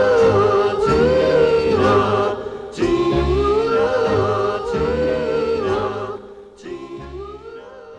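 Doo-wop vocal group singing close harmonies over a backing band as the record ends. The song fades out over the last couple of seconds.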